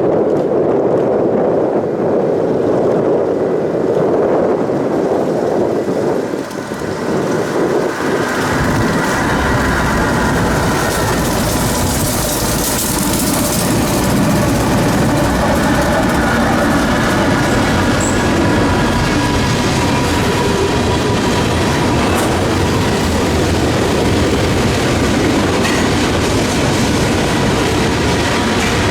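A long freight train rolling past, its wheels running on the rails, the sound growing heavier and deeper about eight seconds in. Gusty wind buffets the microphone.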